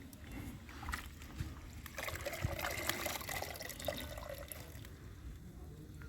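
Water trickling and splashing, busiest from about two to four and a half seconds in, with scattered small clicks.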